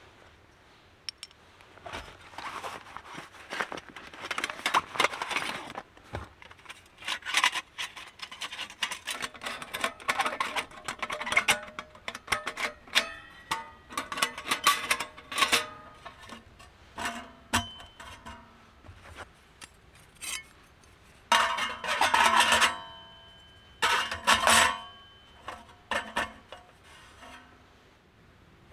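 Camp gear being handled: irregular clinks and clatter of small metal items, with short ringing tones and a couple of longer bursts of rustling near the end.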